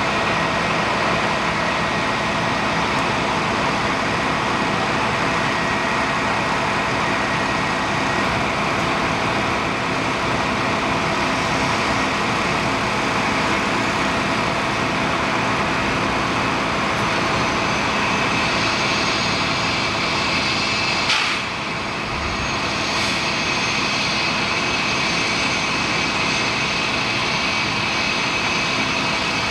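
Heavy vehicle engine idling steadily, with a single sharp click about two-thirds of the way through.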